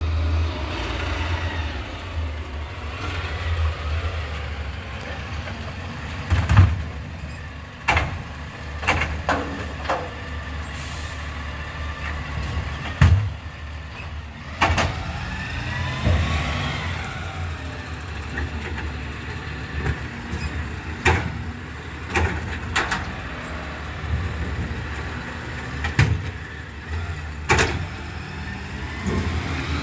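Garbage truck's diesel engine running steadily while it empties wheelie bins, with repeated sharp knocks and clanks of bins being lifted and tipped, and a rising and falling whine from the lifting hydraulics about halfway through.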